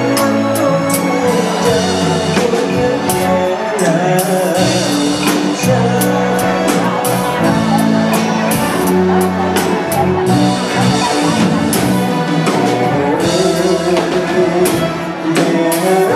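Live band playing an instrumental break in a song, with held notes over regular drum hits.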